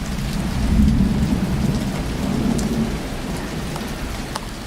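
Thunder rumbling over steady rain. A low rumble swells about a second in and eases off over the next few seconds, with raindrops ticking throughout.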